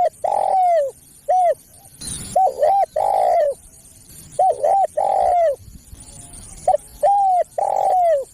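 Spotted dove cooing its repeated call phrase: a couple of short notes and a long falling coo, about every two seconds.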